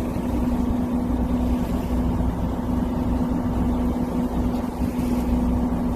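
Fishing boat's engine running steadily with a constant low hum and rumble.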